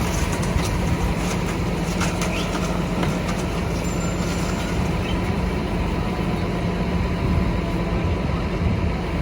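Large diesel truck engine running steadily with an even low hum.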